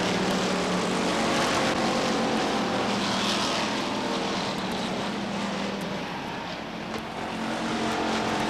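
A pack of short-track stock cars racing around the oval, their engines running hard together at speed. The sound dips a little after about six seconds and swells back near the end as the cars come around.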